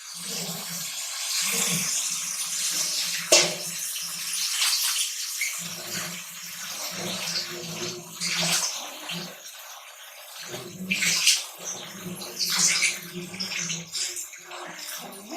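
Raw chicken pieces sizzling in hot oil and masala in a pan on a high flame, with a steady hiss broken by several sharp knocks and scrapes of a spoon against the pan as it is stirred.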